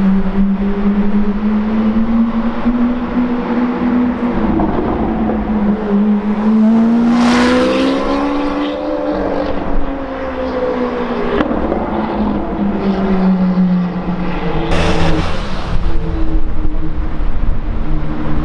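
Supercar engine running at low revs, its pitch drifting slowly up and down, with two short, louder bursts of revving about seven and fifteen seconds in.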